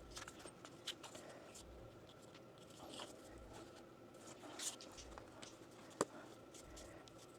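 Faint handling noises of PEX pipe and fittings being worked by hand: scattered small clicks, taps and rustles, with one sharper click about six seconds in.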